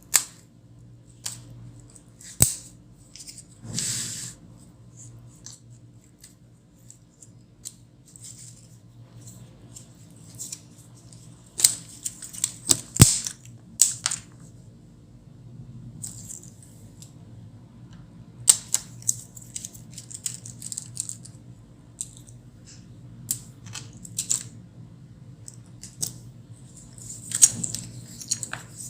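Irregular small clicks, ticks and scraping of a Dell Latitude E5440 laptop being taken apart by hand: screws turned out and plastic and metal parts handled, with a few sharper clicks.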